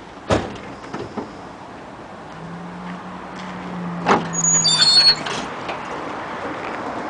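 Truck hood being unlatched and opened: a sharp metal clunk, then smaller clicks, a low hum for a few seconds, a loud knock and high squeaks partway through.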